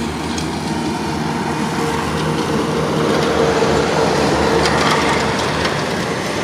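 Road traffic passing on a highway bridge: a steady rush of tyres and engines that swells in the middle and eases off near the end.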